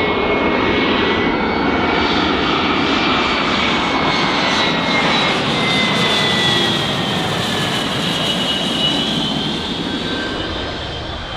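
Jet aircraft engines running loud, with a high turbine whine that slides down in pitch as the aircraft passes, fading slightly near the end.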